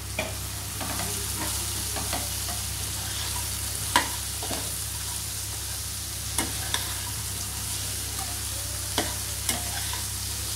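Diced capsicum sizzling in hot oil in a kadai while a spatula stirs it. The spatula scrapes and knocks against the pan several times, loudest about four seconds in.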